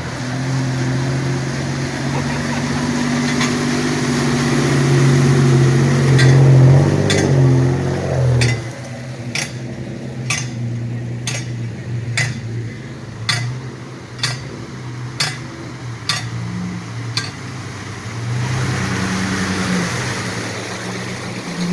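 Vehicle engine running, growing louder over the first several seconds and easing off about eight seconds in. It then runs quietly while sharp clicks sound about once a second for some ten seconds, and it picks up again near the end.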